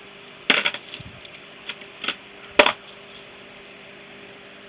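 Small metal tool pieces clinking against each other and a hard surface as they are handled and sorted: a quick cluster of clinks about half a second in, a few lighter ones, and the loudest single clink past the middle.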